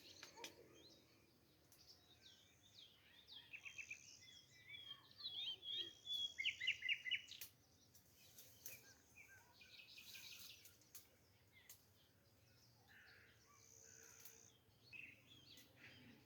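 Small birds chirping and singing, with several short high calls and a louder run of quick chirps about six seconds in, plus a few faint clicks.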